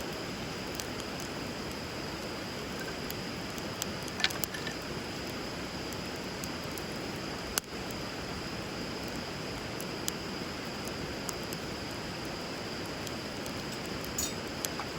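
Wood fire crackling with a few sharp pops, the loudest around halfway, over the steady rush of flowing river water.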